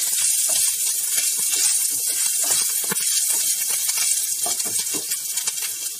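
Chopped onions, ginger-garlic paste and green chillies sizzling in hot oil in a nonstick frying pan, with a steady hiss. Short scrapes and taps from a spatula come throughout as the mixture is stirred.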